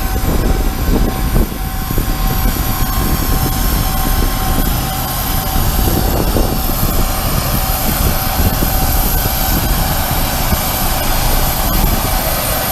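Avro RJ85's four turbofan engines running, heard inside the passenger cabin: a steady low rumble with several high, even whining tones held throughout.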